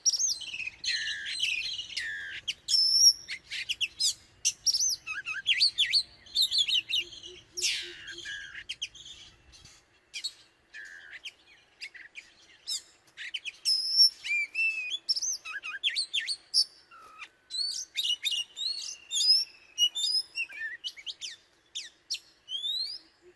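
Oriental magpie-robin singing: a long, varied run of clear whistled notes, quick trills and sweeping phrases with short gaps between them.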